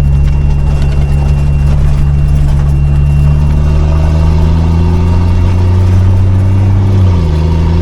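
5-ton military truck's engine running steadily as it drives, its pitch creeping up through the middle and dropping suddenly about seven seconds in.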